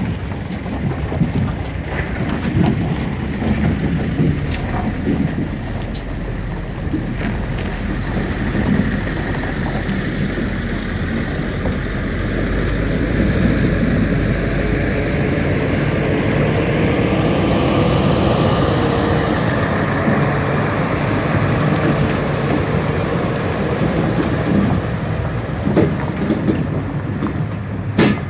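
A heavy vehicle's diesel engine running, with its note rising and then falling in pitch through the middle. There is a sharp knock near the end.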